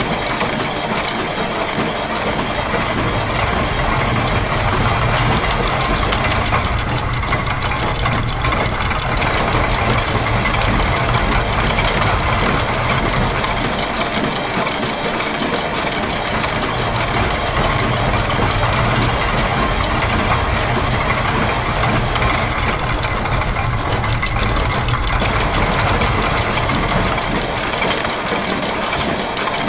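Layered loops of factory machine sounds (gears, press, clockwork springs, ratchets, sewing machine) overlapping in a dense, continuous mechanical clatter with a low steady hum. Twice the high, hissing layer drops out for a couple of seconds.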